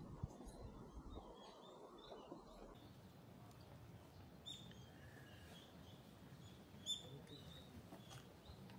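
Faint outdoor ambience with a few short bird chirps, the clearest and loudest about seven seconds in.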